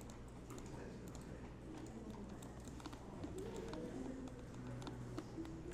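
Faint, scattered clicks of a computer keyboard being typed on, over a low steady hum.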